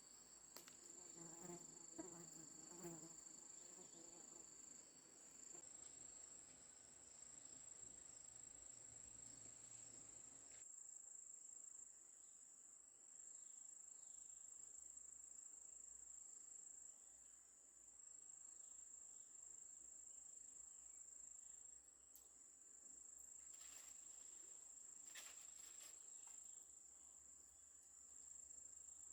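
Faint, steady high-pitched insect chirring, like crickets in the forest. A few soft low sounds come in the first few seconds.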